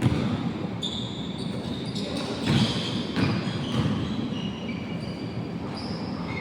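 Basketball game on an indoor court: a ball bouncing with several dull thumps, mixed with short, high rubber squeaks of sneakers on the floor, some of them sliding in pitch.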